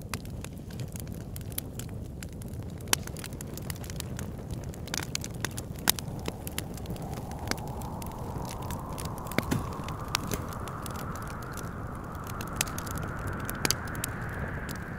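Wood fire crackling with frequent sharp pops over a low, steady rumble. From about halfway through, wind whistles in a slowly rising pitch.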